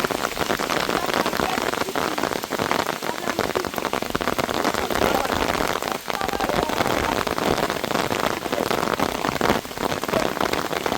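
Heavy rain pouring down steadily, a dense crackling patter of drops.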